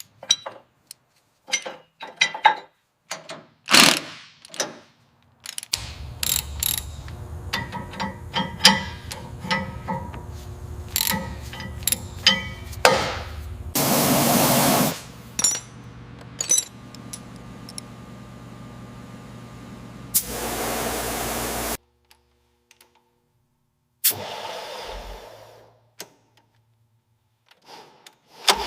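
Workshop mechanical sounds: a run of sharp clicks and knocks, with a steady low hum from about six seconds in to about twenty-two. The hum is broken by two loud bursts of noise.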